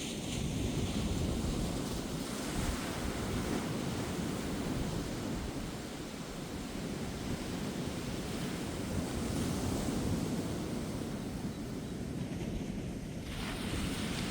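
Ocean surf: waves breaking and washing up a beach in a steady, swelling noise, with a low rumble of wind on the microphone. Near the end the hiss briefly eases before the next wave washes in.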